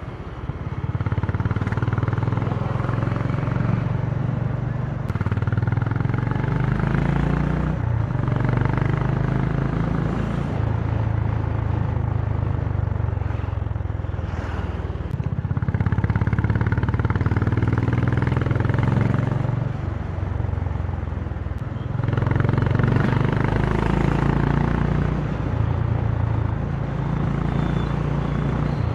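Honda CB350's single-cylinder engine running under way, heard through its exhaust. The engine pitch rises and falls several times as the bike accelerates and eases off.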